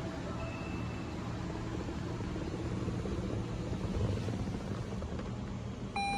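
Toyota Crown Athlete's 2.5-litre V6 idling steadily, an even low hum. A steady electronic beep starts near the end.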